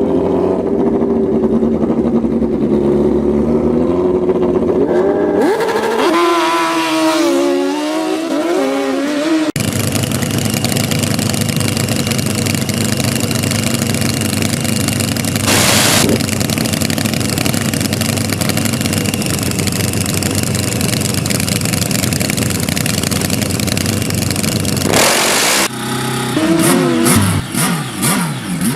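Dirt drag racing motorcycle engines running and revving, with the pitch rising and falling. Just under ten seconds in there is an abrupt change to a long, loud, dense engine noise, and near the end the revving glides return.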